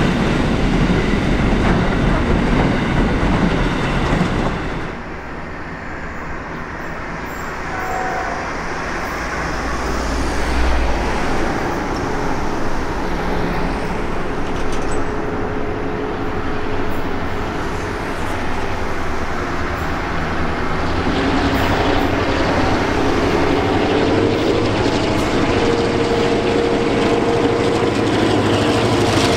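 Container freight wagons rolling past over the rails with a clickety-clack, breaking off about five seconds in. Then a quieter stretch as diesel locomotives approach, V/Line's P13 leading a second locomotive and a carriage, their engines building to a steady drone with a low hum over the last several seconds.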